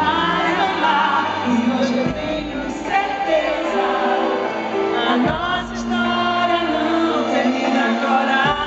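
Live band playing a slow pop ballad, with singing over it.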